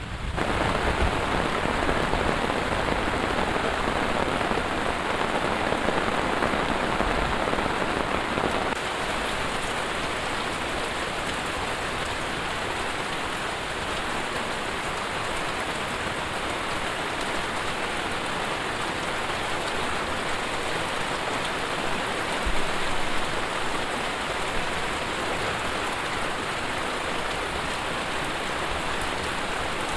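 Heavy rain falling steadily, an even hiss of many drops with no let-up. It drops slightly in loudness about nine seconds in.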